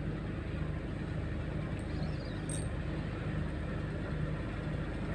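Small boat engine running steadily at low speed, with a fast, even low throb.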